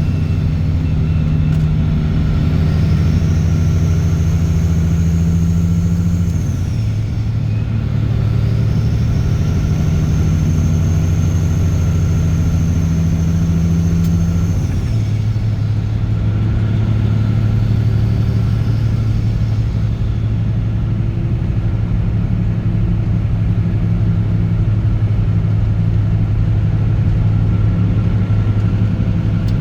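Caterpillar C15 ACERT diesel truck engine with straight pipes pulling on the road: a loud, steady low drone that steps down in pitch twice, about a fifth and halfway in, each time with a brief dip in loudness, then runs at a steady lower note. A high whistle rises and falls away twice before each step.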